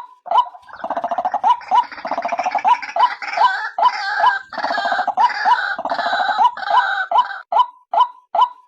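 Female white-breasted waterhen calls: a steady run of short notes about two a second, joined about a second in by a loud, harsh, rapid chattering chorus that stops near the end.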